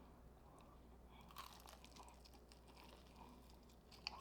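Faint crunching bites and chewing into a crispy fried chicken wing, close to the microphone, with a sharper crackle near the end.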